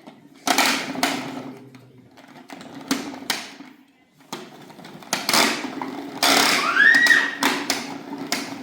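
A series of irregular knocks and bangs, roughly one a second, over a steady low hum, with a short rising-then-falling tone about seven seconds in.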